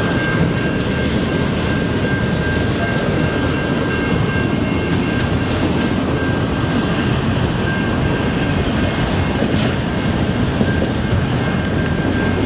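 A long freight train of autorack cars passing on jointed track, a steady loud roar of steel wheels on rail. A thin high whine rides over it for about the first six seconds, then fades.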